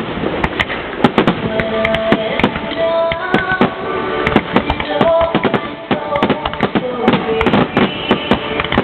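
Dense barrage of firework bursts, many sharp bangs and crackles in quick succession, over steady music.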